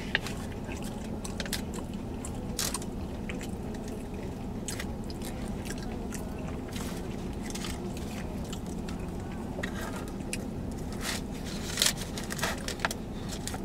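Close-miked chewing of food, with scattered clicks and small handling noises, over a steady low hum inside a car. A louder cluster of clicks comes near the end.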